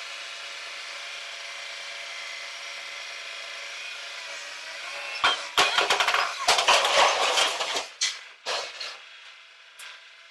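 A machine's engine running steadily, then about five seconds in a spell of loud, harsh noise that comes and goes for about four seconds before dying down.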